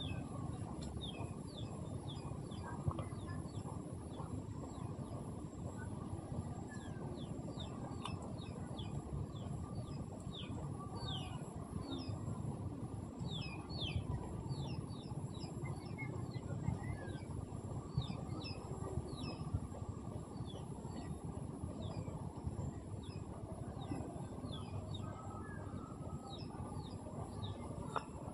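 Small birds chirping, many short quick falling calls one after another, over a steady low background rush.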